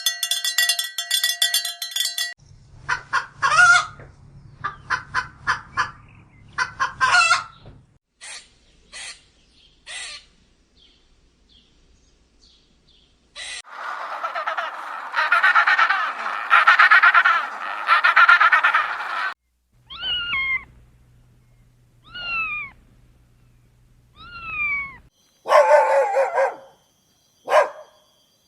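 Domestic fowl calling in a run of short clips. First come rapid short calls, then a dense stretch of flock noise. Several short calls that fall in pitch follow.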